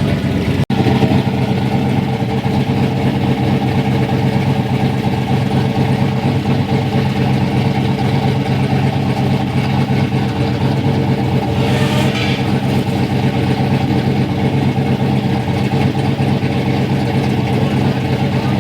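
Ford Ranger's rebuilt turbocharged engine running steadily after its first start, with a short hiss about twelve seconds in.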